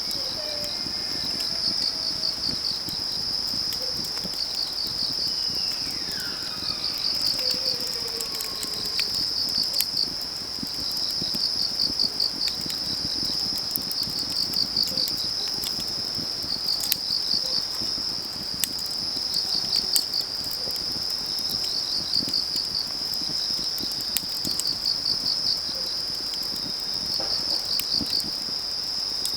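Autumn crickets chirping steadily in repeated pulsed trills, over a wood fire crackling with scattered sharp pops. A faint call falls in pitch about six seconds in.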